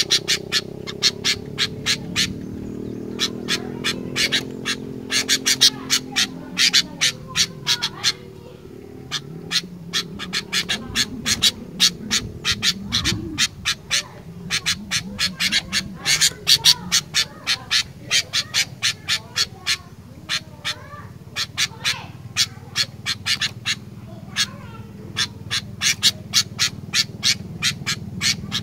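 Sooty-headed bulbul calling in rapid runs of short, sharp notes, coming in clusters with brief pauses. A fainter, lower wavering sound runs underneath.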